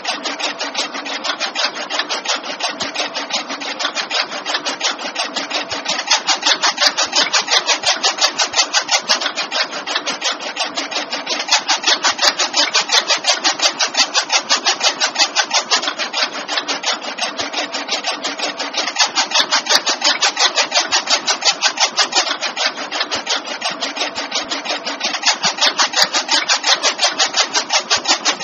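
Homemade mini chaff cutter running, its small motor-driven mechanism making a fast, regular rasping rhythm that swells and eases every few seconds.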